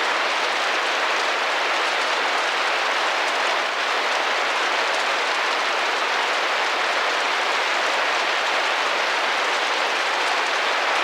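Steady rain drumming gently against a window pane, an even patter that neither swells nor breaks.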